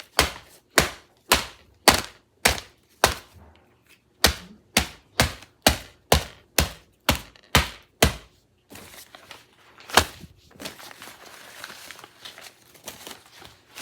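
A paper laptop being struck hard by hand, a rapid run of sharp thumps at about two a second with a short break, then one more thump. A few seconds of softer scratchy noise follow near the end.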